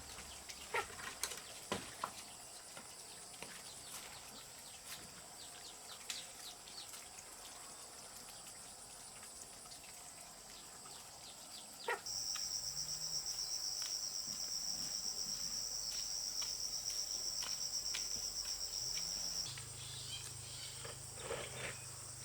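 Insects chirring in a steady high trill, with scattered sharp clicks in the first half. About halfway through, a much louder, pulsing insect buzz cuts in suddenly and stops just as suddenly a few seconds before the end.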